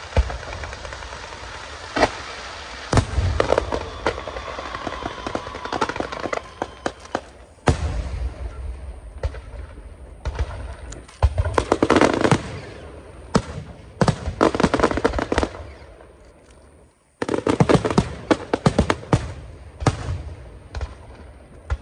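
Fireworks display: repeated sharp bangs and dense crackling volleys. There is a short lull about three quarters of the way through, then a sudden new burst of rapid bangs.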